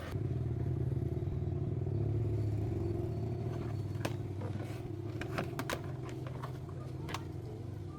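An engine running steadily at a low, even pitch. From about halfway through come a handful of sharp metallic clicks.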